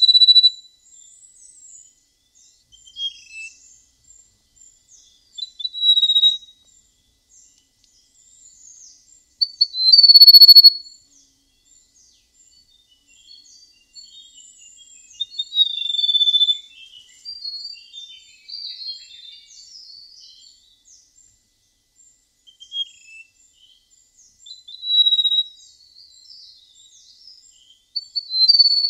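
A prenjak emas, a small songbird, singing clear, flute-like whistled phrases every few seconds, the loudest about a third of the way through, with faint high chirps and twitters in between.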